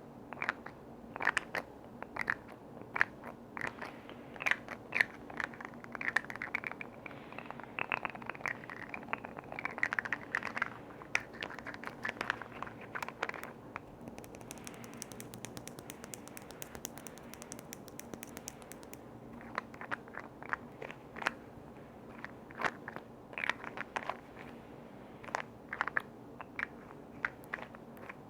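Close-miked tapping, scratching and clicking on container lids, with irregular sharp taps, some with a short ring. In the middle comes a few seconds of fine crackling hiss.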